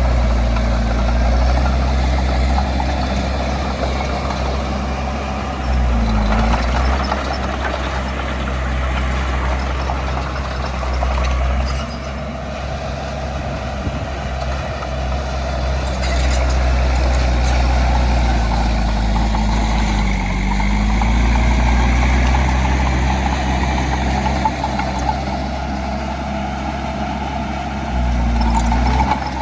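Heavy earthmoving machine's diesel engine running continuously and loudly. Its pitch dips and recovers briefly about three times, and its loudness rises and falls.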